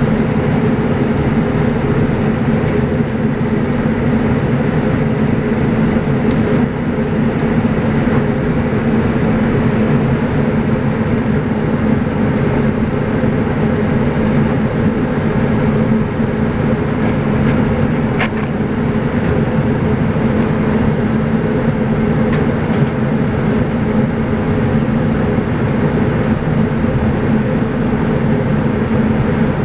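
Cabin noise of a Saab 340B in flight: its two turboprop engines and propellers make a steady, loud drone with a low hum of several steady tones under airflow noise. A few faint clicks come through in the second half.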